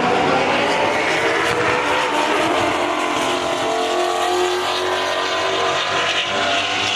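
Race car engine running hard at high revs, its pitch climbing, holding for a few seconds, then falling away.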